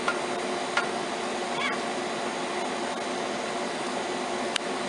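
Steady mechanical whirring hiss with faint low hum tones, like a running air-conditioning unit or similar machine. A few short faint chirps break through.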